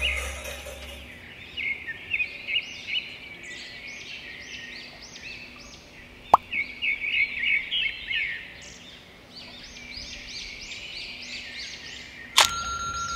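Small birds chirping in short phrases of quick repeated high notes, with a single sharp click about six seconds in and a sudden louder sound near the end.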